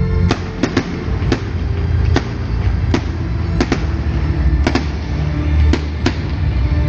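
Fireworks going off: about a dozen sharp bangs at irregular intervals, over loud music with a heavy bass.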